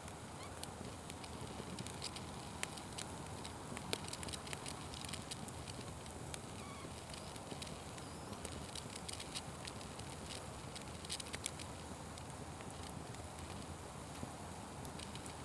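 Fire burning with a steady hiss and irregular crackles and pops; the sharpest pop comes about four seconds in.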